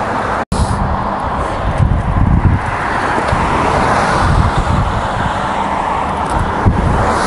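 A moving road vehicle: a steady low engine hum under road and wind noise rumbling on the microphone. The sound cuts out completely for a split second about half a second in.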